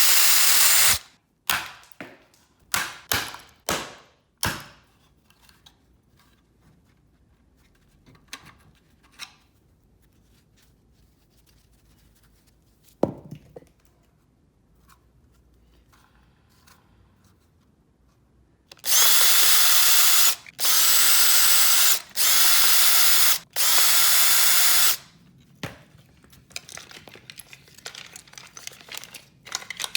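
Power drill running in short bursts with a steady motor whine: about a second at the start, several brief bursts over the next few seconds, then four bursts of a second or two each past the middle. Light clicks and handling of parts in between.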